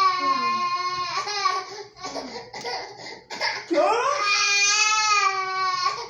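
A young child crying: a high-pitched cry at the start, short fussy sounds, then a long wail that rises from about four seconds in and is held for about two seconds.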